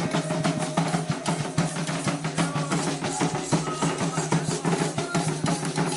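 Candomblé ritual drumming on atabaque hand drums, a fast, steady rhythm of dense strikes that keeps going without a break.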